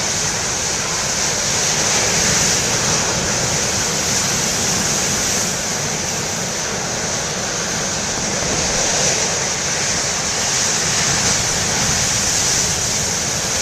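Heavy ocean surf from large storm waves breaking, with wind blowing on the microphone: a steady rush of noise without breaks.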